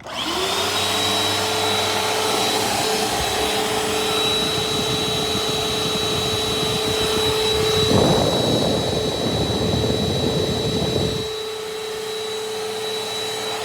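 A Bissell PowerForce Helix upright vacuum cleaner is switched on and its motor spins up within a moment to a steady hum with a thin high whine. About eight seconds in, a louder rough rushing noise joins it for about three seconds. Then the vacuum runs on steadily, a little quieter.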